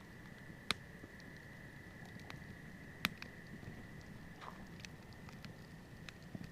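Wood fire crackling: scattered sharp pops and ticks, with two louder pops just under a second in and about three seconds in, over a faint low rumble and a steady high whine.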